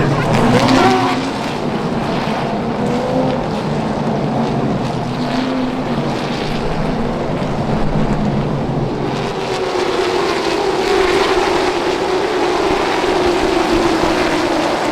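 Late model stock cars running on the track, a steady engine noise; about nine seconds in a higher engine note comes in and slowly falls in pitch.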